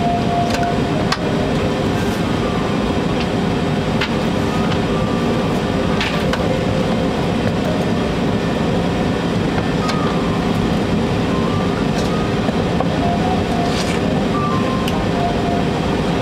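Steady cabin noise inside a Boeing airliner in flight: jet engines and airflow making an even rumble and rush, with a few faint steady tones.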